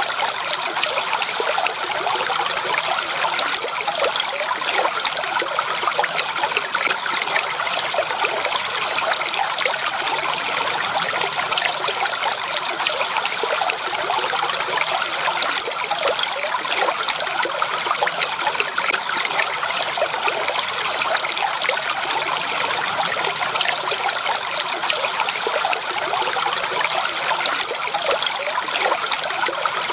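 Steady running water of a small stream, trickling and splashing over stones.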